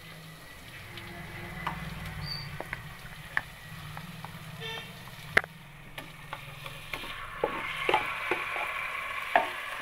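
Ginger-garlic paste sizzling in hot oil in a kadai as marinated chicken pieces are dropped in, with scattered clicks of a spoon against the pan. The sizzle grows louder about three-quarters of the way through, as the rest of the chicken is tipped in, over a low steady hum.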